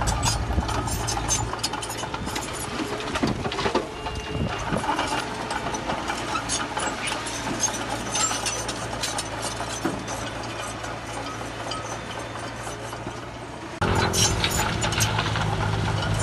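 Heavy construction machinery's diesel engine running, with frequent clicks and clanks over it. About 14 s in, the sound jumps abruptly to a louder, steadier engine hum.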